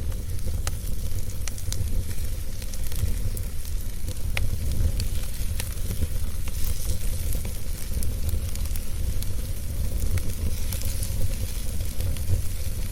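Wood fire burning, with a steady low rumble of flame and scattered sharp crackles and pops from the burning wood.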